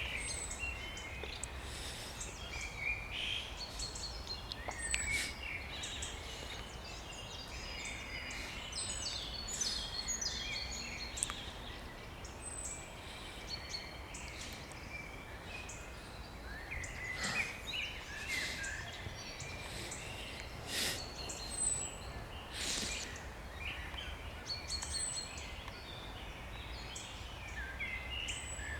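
Spring birdsong: several songbirds singing and calling at once in quick, varied chirps, trills and high whistles, over a steady low rumble.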